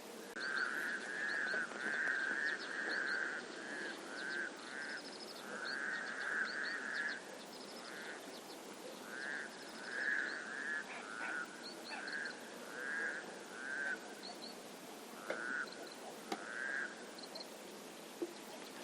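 Frogs croaking, a run of short, rough, repeated calls that come thick and fast for the first several seconds and then thin out, with faint higher chirps above them over a steady background hiss.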